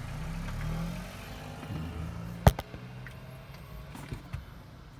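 A vehicle engine idling with a low, steady hum that fades after about a second and a half. There is one sharp click about halfway through and a couple of fainter clicks near the end.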